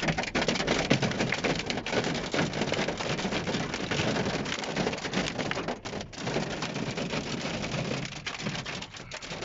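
Hailstones falling hard and pelting the ground and nearby surfaces: a dense, steady patter of countless small hits.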